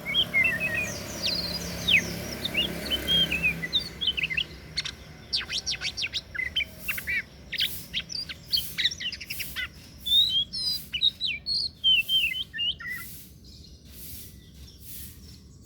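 Oriental magpie-robin (kacer) singing a varied song of clear whistles and quick chirps, with a fast run of sweeping notes in the middle and a short pause near the end.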